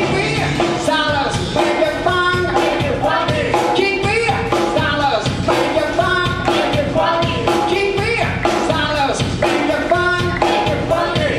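Live band playing upbeat rock and roll, a sung melody over a full band with a steady drum beat.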